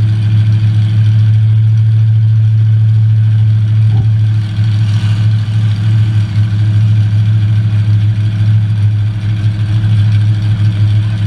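Demolition derby car's engine idling steadily, heard from inside the stripped-out cabin, with a single knock about four seconds in.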